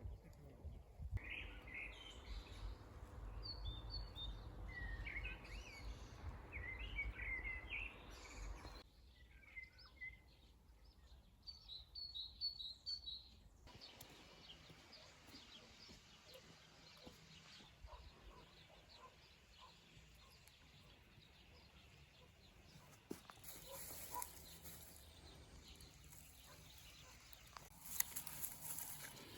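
Small birds chirping in quick short phrases through the first dozen or so seconds, over a low rumble; after that only faint outdoor background remains.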